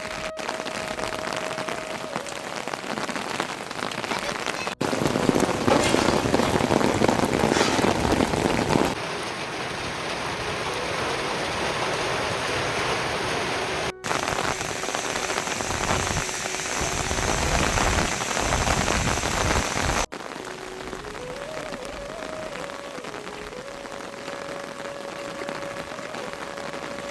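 Steady rain falling and pattering on surfaces, in several shots joined by abrupt cuts; the rain is heaviest for a few seconds about five seconds in.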